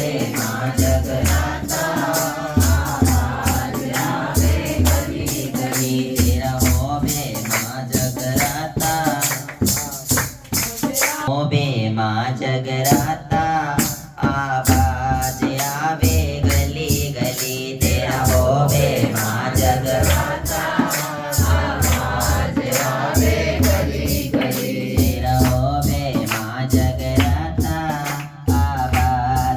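Devotional bhajan music for a mata jagrata: a steady beat of drum and rattling percussion under a melody, with some singing.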